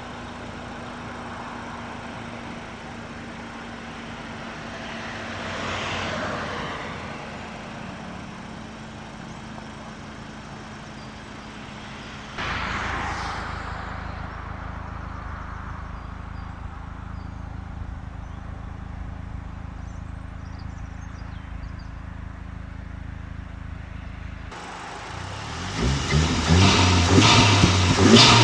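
VW Golf 8 R's 2.0-litre turbocharged four-cylinder running steadily at idle, with a brief swell about six seconds in and a sudden step up in level just after twelve seconds. About three-quarters of the way through, the sound cuts abruptly to a much louder, rougher, pulsing exhaust note.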